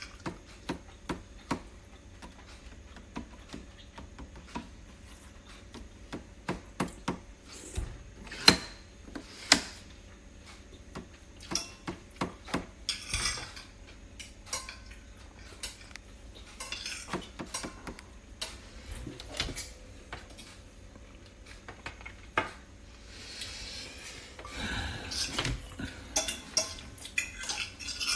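Irregular clinks, knocks and clatter of hard objects being handled, like dishes and utensils, with a few short scraping or rustling stretches.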